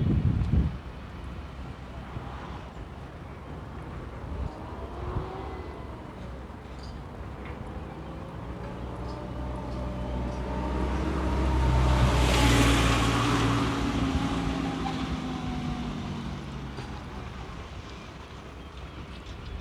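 A vehicle passing by, its engine and tyre noise building slowly to a peak about two-thirds of the way through, then fading away.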